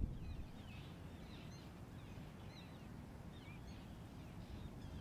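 Birds calling over the river: short chirping calls that glide up and down, coming in quick groups again and again, over a faint low rumble.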